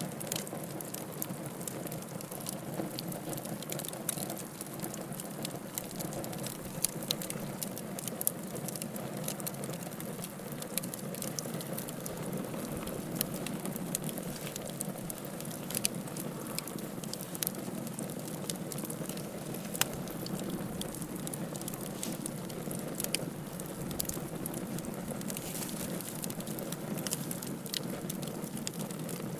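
Wood fire crackling: frequent sharp pops and snaps over a steady low hiss of burning.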